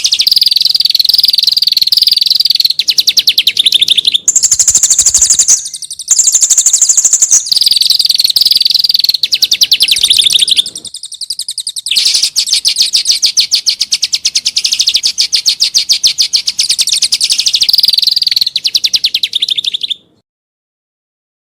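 Recorded songbird trills: fast strings of rapidly repeated rough notes in stretches of a few seconds, some switching to a higher, shriller register. This is 'kasar' (rough) masteran material for training caged songbirds. It cuts off abruptly about twenty seconds in.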